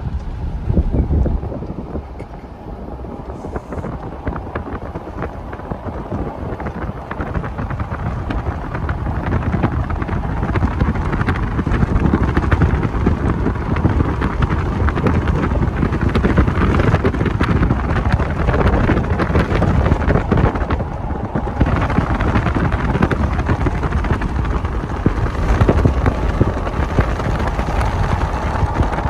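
Freight train rolling past, its steel wheels clattering on the rails. The sound swells about ten seconds in, and wind buffets the microphone.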